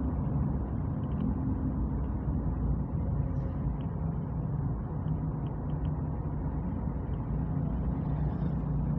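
A motor vehicle's engine running steadily at an even pitch while on the move, over a haze of road noise.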